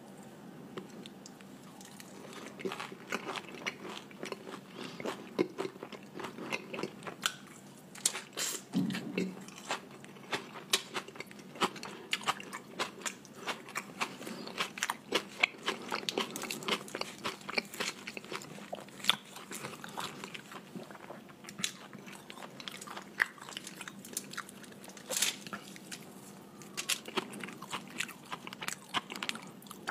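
Close-miked chewing and biting of flatbread and curried chicken dipped in gravy: wet mouth sounds with many sharp crunchy clicks throughout.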